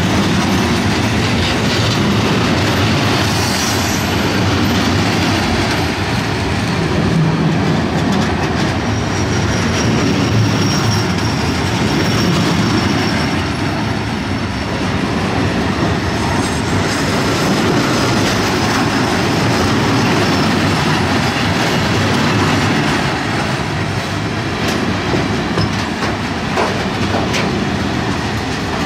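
Heavy freight train of covered hopper wagons rolling past close by: a steady rumble and clatter of steel wheels over the rails.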